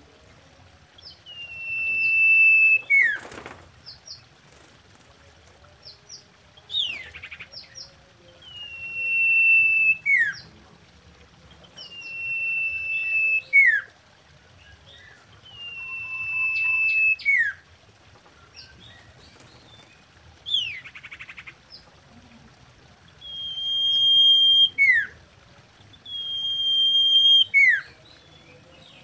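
Common iora singing: a long whistle held on one pitch and swelling in loudness for a second or more, then dropping sharply at the end. The phrase repeats about every three to four seconds. Twice a quick buzzy rattle comes between the whistles, once early and once about two thirds of the way through.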